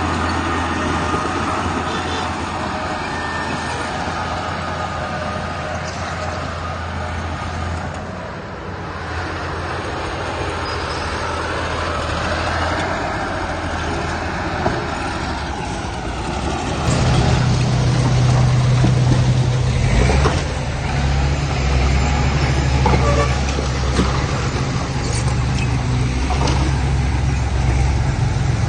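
Heavy diesel engines of earthmoving machinery running steadily, with a deeper engine coming in louder about two-thirds of the way through and a few clanks after it.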